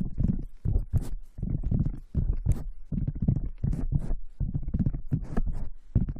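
Hands rubbing and pressing on a sensitive ASMR microphone in a rhythmic, muffled scrubbing, about three strokes a second, as in a mock hair wash.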